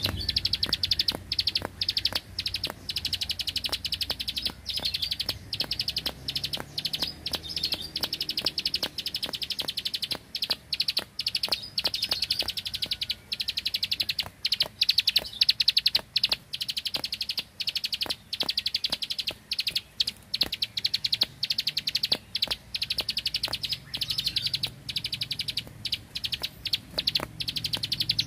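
Prinia (prenjak) singing its 'bren' song: a very rapid, machine-gun-like run of high clicking notes, kept up almost without a break and broken only by short pauses.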